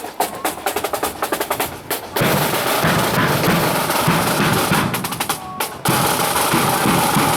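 Parade marching band drums: about two seconds of rapid snare drum strokes, then the full band strikes up with drums and a steady, dense wall of music.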